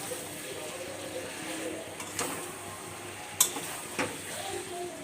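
Chicken curry sizzling in a pan while it is stirred, with a steady hiss and a metal spoon knocking sharply against the pan three times, the loudest in the middle.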